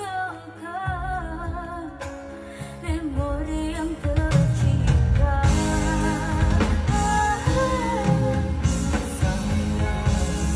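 A voice singing a pop song over band accompaniment with drums and guitar; the backing grows fuller and louder about four seconds in.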